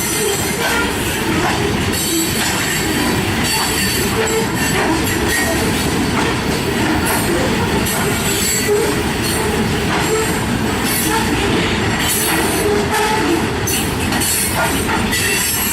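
Freight train cars rolling past close by, a loud steady rumble of steel wheels on rail with many clicks and short squeals.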